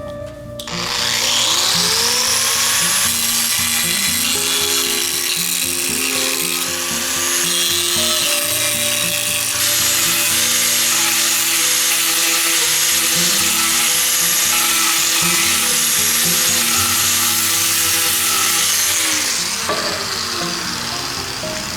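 A high-speed power tool motor spins up with a fast rising whine, runs steadily for about nineteen seconds, then winds down with a falling whine near the end. Background music plays underneath.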